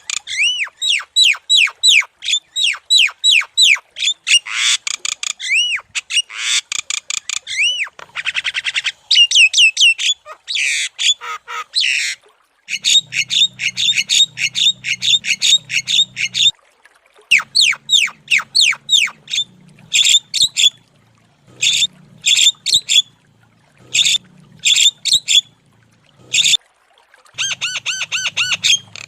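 Javan myna (jalak kebo) singing continuously in fast runs of repeated whistled, chattering notes, with short pauses between phrases in the second half.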